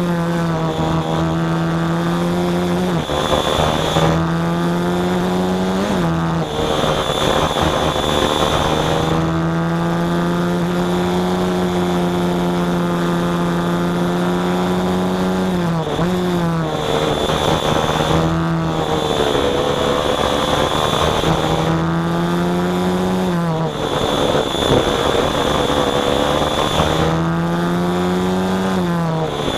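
Small engine running steadily under throttle, its pitch holding for several seconds, then dipping and climbing again every few seconds as the throttle is eased and reopened.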